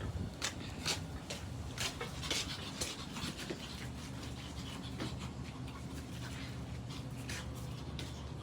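Pet dog panting: quick breaths about two a second, loudest in the first few seconds and then fading.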